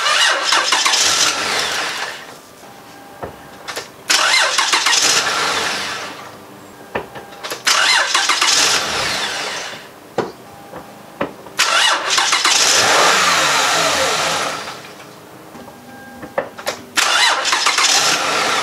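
Starter cranking a minivan's six-cylinder engine in five separate tries of one to two and a half seconds each, with pauses between: repeated attempts to start it that don't catch.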